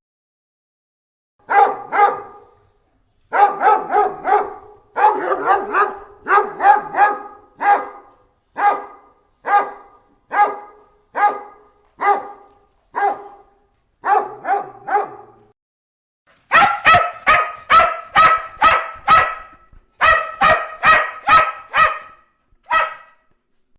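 A dog barking repeatedly in short clusters, with dead-silent gaps between them, then single barks under a second apart. From about two-thirds of the way in come faster runs of sharper barks, roughly four a second.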